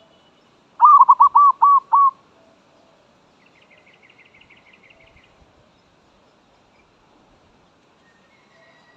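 Zebra dove cooing: a loud run of about six quick, evenly spaced notes, starting about a second in and lasting just over a second. A few seconds later comes a faint, rapid series of higher chirps.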